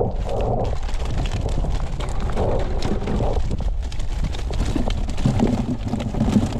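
Wind buffeting the microphone as a steady low rumble, with scattered knocks and thumps.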